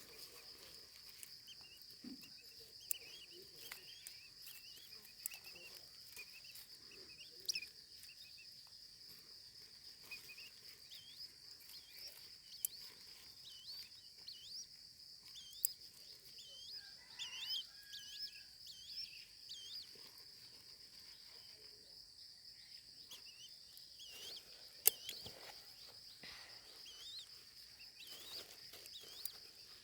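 Steady high-pitched insect drone, with many short faint bird chirps over it and a few sharp clicks, the loudest one late on.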